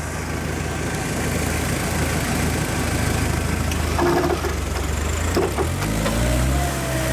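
Off-road 4x4's engine running, its revs rising about five and a half seconds in as it accelerates.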